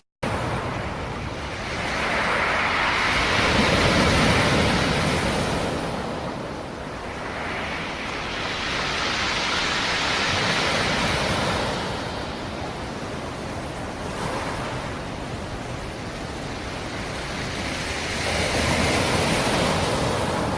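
Black Sea surf: waves rolling in and breaking in three slow swells about six to eight seconds apart. The sound drops out for a split second right at the start.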